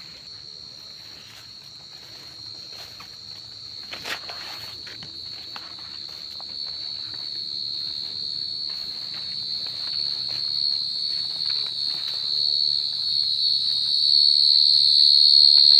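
A gangsir, a giant burrowing cricket (Brachytrupes), singing one unbroken, shrill high-pitched trill that grows steadily louder as it is approached. Faint rustling steps sound beneath it, with a sharp click about four seconds in.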